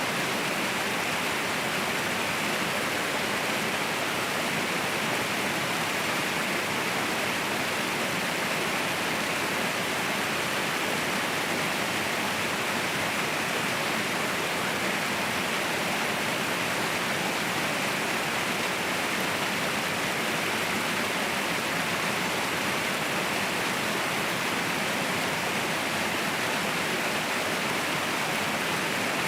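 Waterfall: a steady, unbroken rush of falling water, even throughout, with a hiss-like brightness and little deep rumble.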